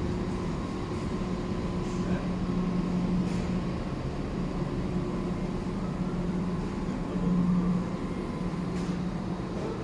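Steady low mechanical hum and drone of a Deutsche Bahn passenger train beside the platform, swelling briefly about seven seconds in.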